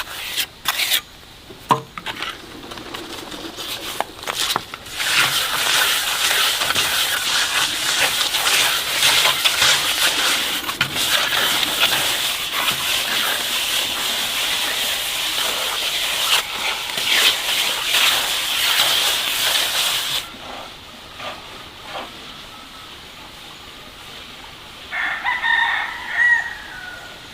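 A flock of chickens clucking and calling together, dense and busy for about fifteen seconds, then dying down. Near the end, a rooster gives one short crow.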